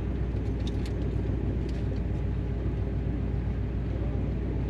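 1957 Chevy 210's engine idling steadily, an even low sound with no revving.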